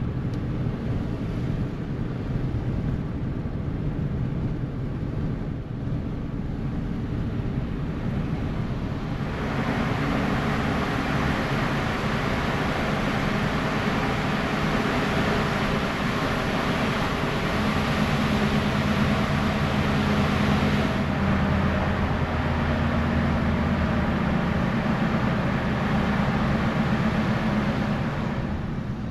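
Motor vehicle engine running with a steady low drone. About a third of the way in, a loud rushing noise of tyres and wind rises and holds as the vehicle gets under way.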